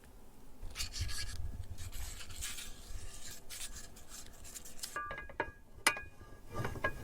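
Scraping and rubbing of kitchen utensils during food preparation, followed about five seconds in by a few sharp clicks and light clinks.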